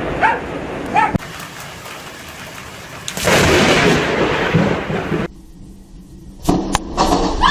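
Thunderstorm with rain falling and thunder rumbling, swelling loud for about two seconds midway, then dropping away suddenly. Near the end come a few sharp cracks.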